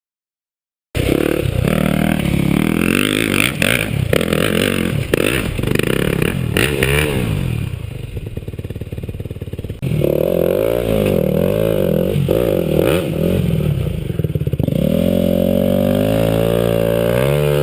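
Dirt bike engine revving up and down while being ridden, pitch climbing and dropping with the throttle and gear changes, with clattering from the bike. It starts after a second of silence and changes abruptly about ten seconds in.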